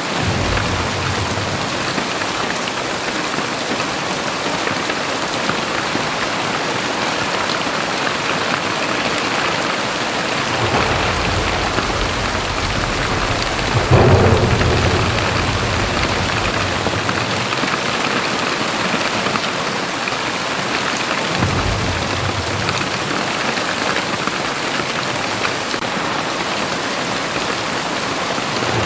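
Very heavy rain falling steadily, with low rumbles of thunder rolling in several times. The loudest clap comes suddenly about halfway through and fades away.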